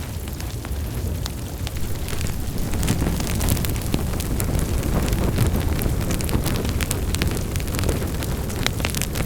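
Wood fire burning in a fireplace: a steady low rush of flames with many sharp crackles and pops, the crackling growing denser and louder about three seconds in.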